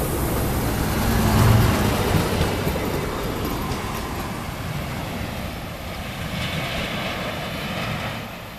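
Diesel multiple unit passing close and pulling away, its underfloor engine hum and wheel-on-rail rolling noise fading steadily as it recedes down the line.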